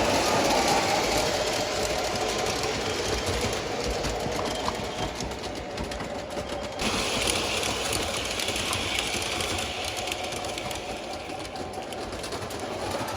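Model electric train running on the layout's track: a steady motor hum with fine, rapid clicking from the wheels over the rails, getting quieter through the middle and louder again near the end as the train moves away and comes back.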